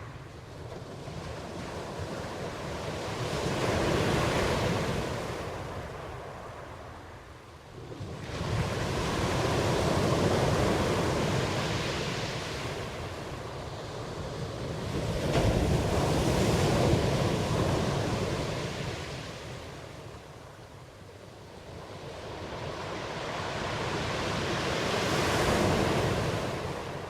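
Ocean waves breaking and washing on the shore, in slow surges that swell and fade about every six seconds, four in all, one arriving with a sudden crash about eight seconds in.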